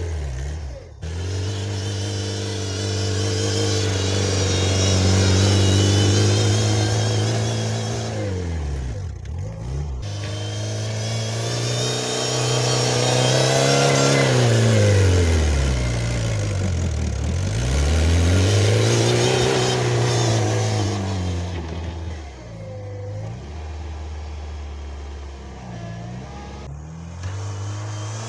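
Homemade mini tractor's engine running hard while clearing snow, its speed sagging and picking up again several times. The sound breaks off abruptly about a second in and again near ten seconds.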